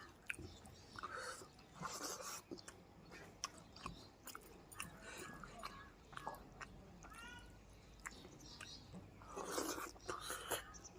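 A person eating, chewing food close to the microphone, with wet mouth noises and many small clicks. The chewing is loudest near the end, and there is a brief wavering pitched sound about seven seconds in.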